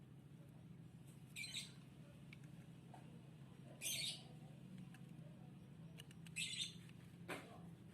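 A small bird chirping four times in short high calls, over a steady low hum.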